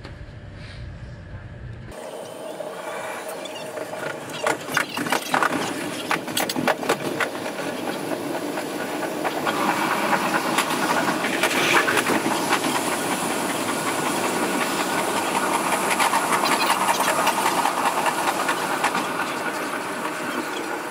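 Electric train running between stations, heard from the driver's cab: steady rolling noise that grows louder as the train gathers speed, with a quick run of wheel clicks over rail joints about four to seven seconds in.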